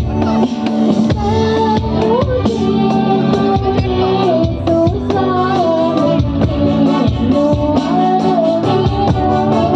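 Telugu Christian devotional song: a high female voice sings a wavering melody over a band with a steady beat, bass and keyboard.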